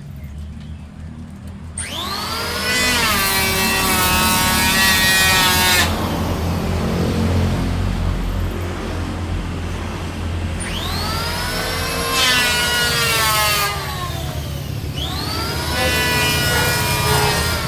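Electric woodworking power tool cutting mahogany in three passes. The motor runs steadily between passes, and its whine drops in pitch as it bites into the wood each time: about two seconds in, again around eleven seconds, and near fifteen seconds.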